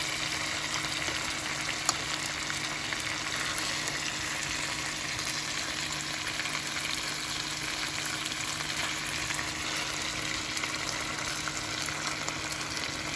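Spicy stir-fry of thin-sliced beef brisket, cabbage and green onion sizzling steadily in a frying pan. There is one light tap about two seconds in.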